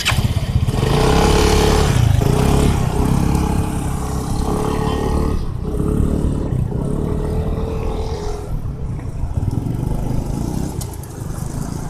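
A motor vehicle's engine running under load, its pitch dropping and rising again several times, over steady low road rumble.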